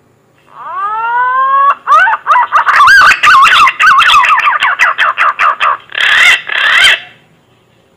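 Green pigeon (punai) calling, as played for a hunter's lure call: a rising whistle, then a long run of quavering, warbling whistled notes, ending with two louder notes.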